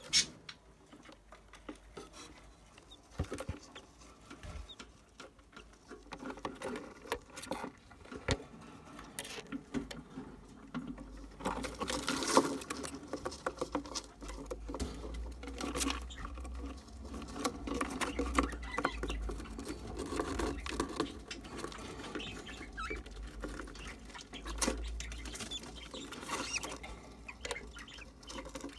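Budgerigar chicks scrabbling and rustling in the nest, with many small scattered clicks and scratches and faint squeaks; the scrabbling grows busier about midway through.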